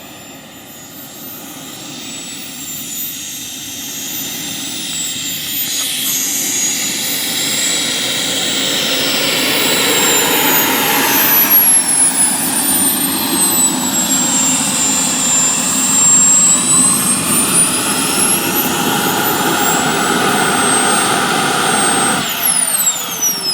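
Small gas turbine of a radio-controlled BAE Hawk model jet running with a high whine and rushing noise, growing louder over the first ten seconds. The whine slides down in pitch and then back up, and the sound drops away suddenly near the end.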